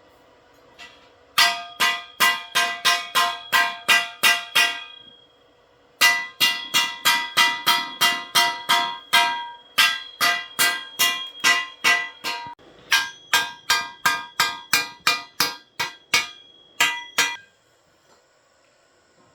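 Metal being struck hard and fast, each blow ringing with a clear metallic tone, about three blows a second in three runs with short pauses between them.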